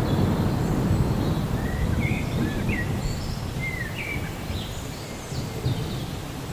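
Low rumble of thunder, loudest at the start and slowly dying away. Several short bird chirps sound in the middle.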